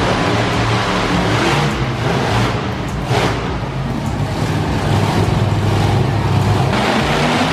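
Monster truck engine running loudly and steadily in an arena, with a brief dip about three seconds in.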